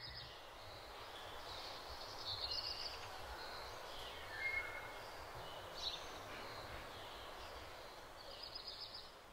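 Outdoor ambience: a steady hiss of background noise with a low rumble, and a handful of short, high bird calls scattered through it.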